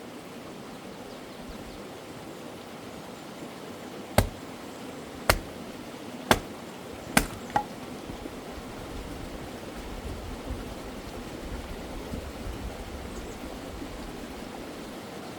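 Firewood being split with an axe: four sharp strikes about a second apart, with a weaker knock just after the last. Behind them runs the steady rush of a stream.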